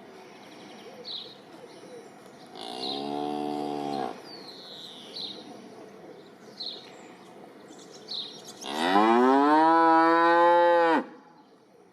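Cow mooing twice: a shorter moo, then a longer, louder one that rises in pitch and holds. Brief bird chirps in between.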